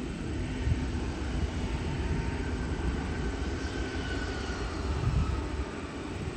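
Jet airliner passing low overhead: a steady low engine rumble with a faint whine that falls in pitch midway.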